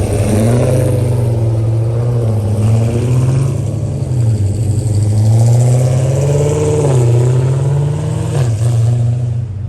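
Dodge Hellcat supercharged 6.2-litre V8s running loudly, the revs rising and falling several times in a low, deep exhaust note.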